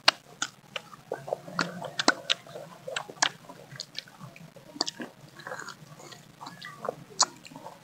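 People biting and chewing mango slices close to the microphone: sharp, irregular crunches and wet mouth sounds, with the loudest bite right at the start.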